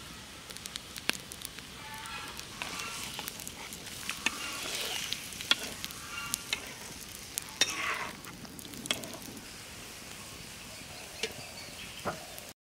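Chicken pieces sizzling in hot oil in an iron karahi, with sharp clicks and scrapes from a metal spatula stirring against the pan. The sound cuts off abruptly at the very end.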